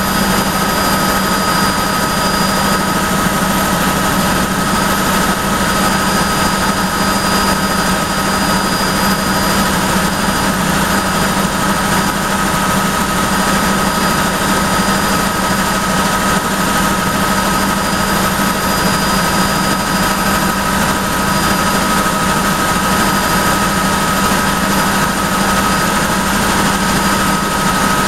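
Helicopter in flight heard from inside the cabin: turbine engine and rotor noise as a loud, steady drone with a low hum and a constant high whine.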